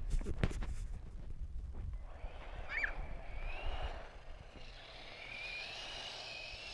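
Toy remote-control car's electric motor whining, a thin high tone that wavers up and down from about halfway in. A few knocks and a low rumble come just before, near the start.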